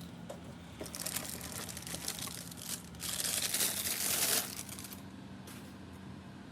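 Packaging being unwrapped by hand, crinkling and tearing in crackly bursts, loudest in a dense stretch about three to four seconds in, with a brief rustle near the end.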